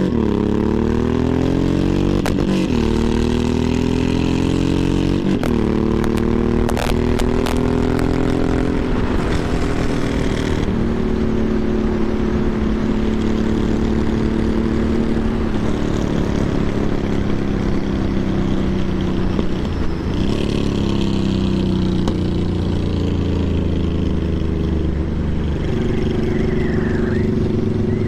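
Motorcycle engine running on the move, its pitch falling at first, then climbing. It drops briefly about five times as it shifts gears, with a few sharp clicks along the way.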